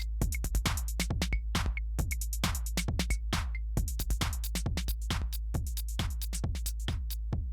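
Electronic music: a busy drum-machine beat of sharp, closely spaced hits over a steady deep bass drone.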